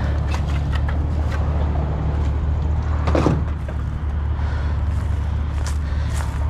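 Truck driving along, heard from inside the cab: a steady low drone of engine and road noise, with light clicks and rattles and a brief sound falling in pitch about three seconds in.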